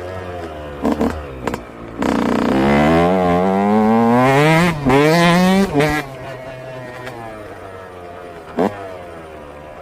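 Yamaha YZ125 two-stroke engine idling with two quick throttle blips, then revving up in a long rise in pitch from about two seconds in, a short dip and a second rise, before dropping back to idle. One more short blip comes near the end.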